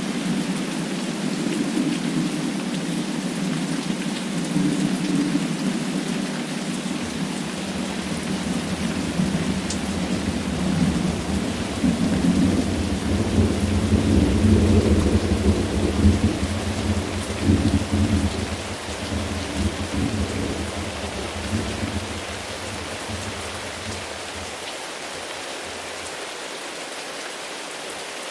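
Steady rain with a long rolling thunder rumble that builds from about a third of the way in, is loudest around the middle, and dies away well before the end.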